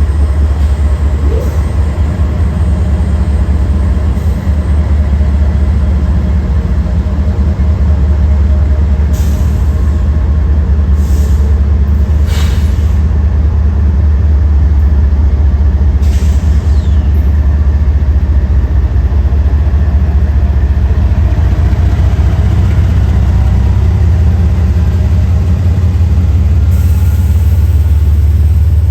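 Freight train rolling past with a loud, steady low rumble, broken by several brief high-pitched hisses or squeals.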